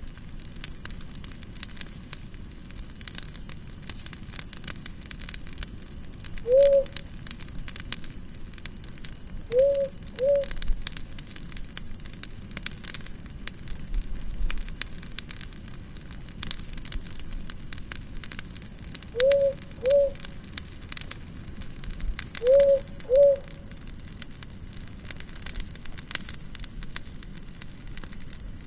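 Campfire crackling with a steady scatter of small pops. Three times, a quick run of four or five high chirps comes in, like an insect. The loudest sounds are short low calls that rise and fall, heard singly or in pairs about seven times.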